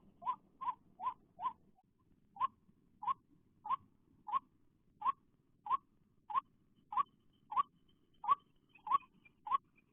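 White-breasted waterhen call: a long run of short, upward-sliding whistled notes. A few come quickly at first, then after a brief pause they repeat steadily about one and a half times a second.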